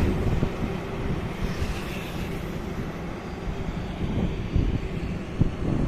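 Highway traffic passing: a vehicle goes by loudest at the start, then a steady low road rumble with small swells.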